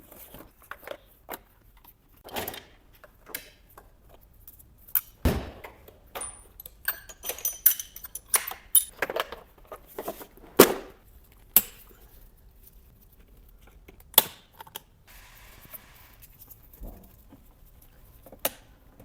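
Hand tools and metal parts clinking and knocking during engine work: irregular sharp clicks and clunks, some with a short metallic ring.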